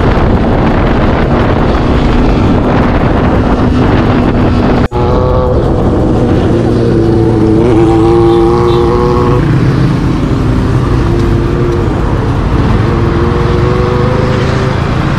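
Motorcycle engines running, with a cut about five seconds in; after it the engine note rises and falls.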